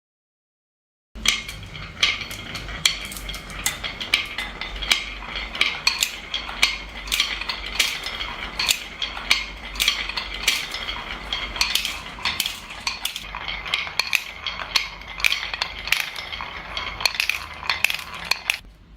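Marbles rolling and clattering down a marble run: a dense stream of sharp clicks over a steady low rumble, starting about a second in and stopping shortly before the end.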